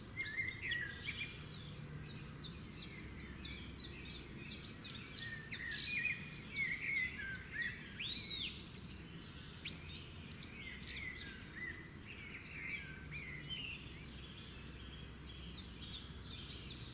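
A chorus of many small birds chirping and twittering, with quick overlapping calls and short whistles throughout, over a steady low background noise.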